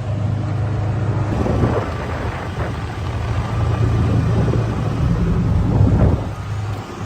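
A small cart's motor running steadily as it drives along, with a low hum and wind rumbling on the microphone. The hum dips near the end.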